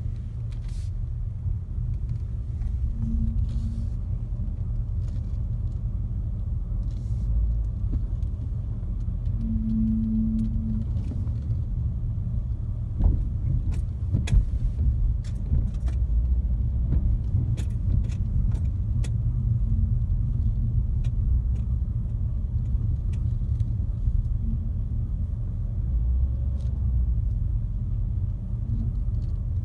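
2015 Mercedes-Benz E63 S moving at low speed with a steady low rumble, and a short low groan that comes and goes as the steering wheel is turned slightly left and right. The groan comes with a slight vibration in the wheel, and its cause has not been found. Light clicks and rattles are scattered through the middle.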